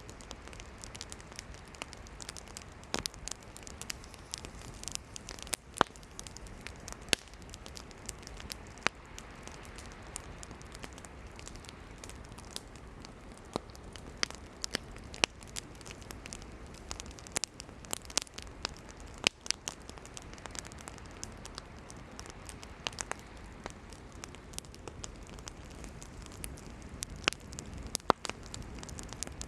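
Wood campfire burning, with irregular sharp crackles and pops over a low steady hiss of the flames.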